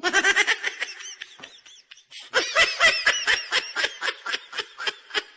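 Meme laugh sound effect: a voice laughing in rapid, quick-fire pulses. It starts abruptly, dips briefly about two seconds in, then launches into a second run of laughter.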